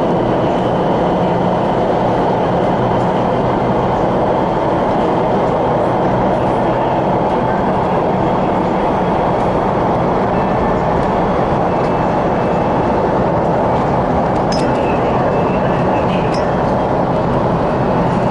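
CRRC Changchun-built MTR West Rail Line electric train running at speed, heard from inside the cabin: a steady, unbroken rumble of wheels and running gear, with a few small clicks near the end.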